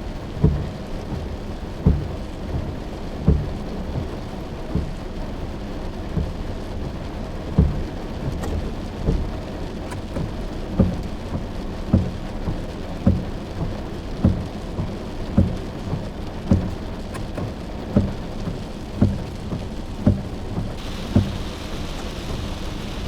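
Heavy monsoon rain falling steadily, with short low thuds repeating about once a second; the rain's hiss grows brighter near the end.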